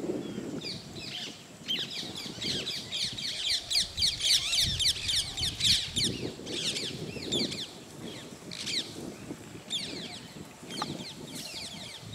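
Wild birds chirping in quick runs of short, falling high notes, busiest a couple of seconds in, over a lower rustling that comes and goes.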